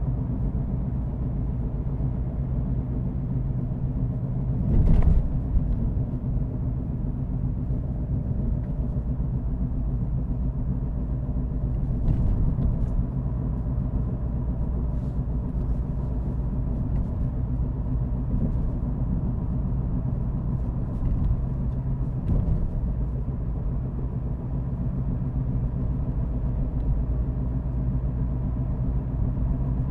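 Car driving along at a steady pace: a low, steady engine and road rumble. There is a single thump about five seconds in and a few faint clicks later on.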